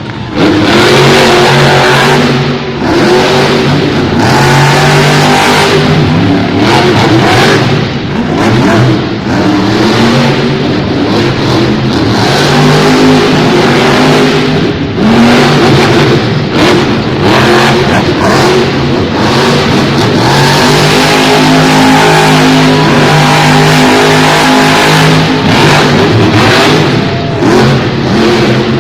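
Monster truck's supercharged V8 engine revving hard and loud, its note rising and falling again and again as the throttle is worked.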